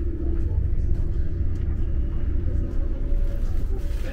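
Steady low rumble of a Siemens ICE 4 high-speed train running at speed, heard from inside a passenger car. A steady hum fades out about half a second in.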